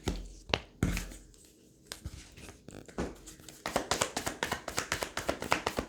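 Tarot cards being handled: a few separate taps and flicks, then from a little past halfway a rapid run of card clicks as the deck is shuffled.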